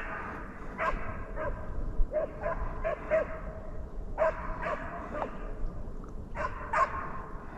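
Deer-hunting hound baying while running a deer: repeated bays at an uneven pace, about one to two a second, some short and some drawn out.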